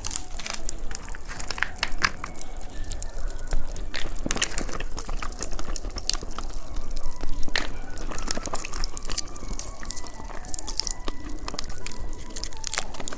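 Popping candy crackling, with irregular sharp little pops scattered throughout.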